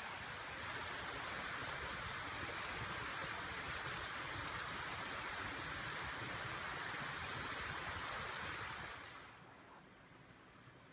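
Steady rushing outdoor ambience, an even hiss with no distinct events, that drops away to quiet room tone about nine seconds in.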